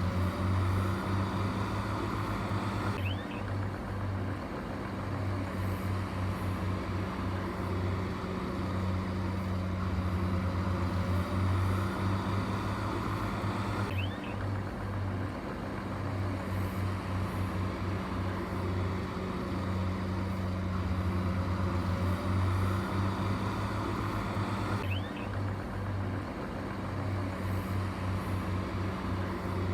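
Heavy diesel engine of earthmoving machinery running steadily at a low, even pitch, as a loop that repeats about every 11 seconds.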